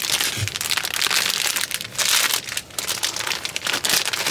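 Plastic packaging crinkling and rustling as it is handled, with a soft thud about half a second in.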